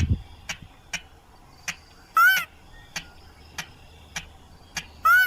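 Lure-call recording of a rail (mandar padi, sintar): two loud, short, arched squealing calls about three seconds apart, with sharp ticking notes in between. A brief low thump at the very start.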